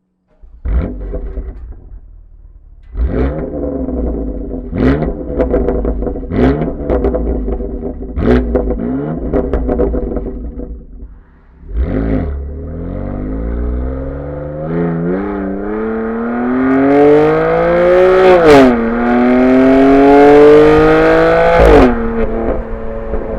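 2020 BMW M4 Competition's twin-turbo 3.0-litre inline-six with the M Performance titanium exhaust, starting up and being revved sharply several times, each rev ending in pops and bangs on overrun. After a brief lull it pulls hard with the pitch climbing steadily, dropping sharply twice near the end, as at gear changes.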